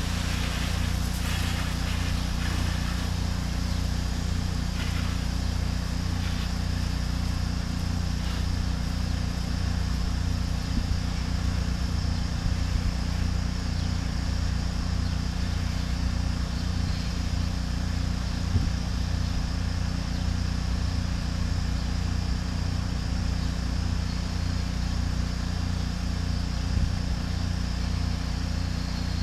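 Pressure washer running steadily under load, its engine humming under an even hiss of high-pressure water spray.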